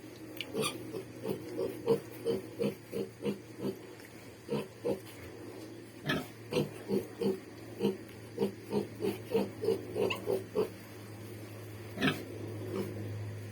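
Pig grunting in runs of short, quick grunts, about three a second, pausing between runs, over a steady low hum.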